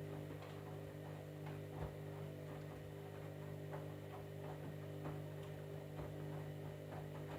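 Candy washing machine running mid-cycle: a steady electric hum with irregular light ticks and clicks over it.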